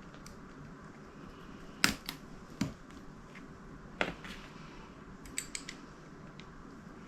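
Small metal parts and tools clicking and clinking as they are handled while the powervalve linkage is assembled: a sharp click about two seconds in, a couple more over the next two seconds, and a quick run of light ticks near the end.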